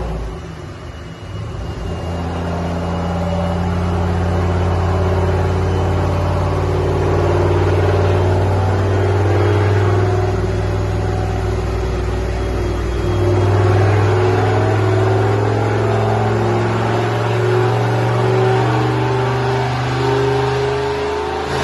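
Turbocharged LS3 V8 of a manual Camaro, fitted with an On3 turbo and Kamakaze mufflers, running on a chassis dyno at a steady, fairly low engine speed, its pitch wavering only slightly and swelling briefly about two-thirds of the way in.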